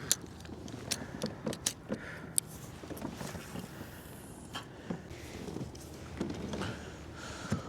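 Handling noise in a kayak: a scattered series of sharp clicks and light knocks, several in the first few seconds, with a steady low background.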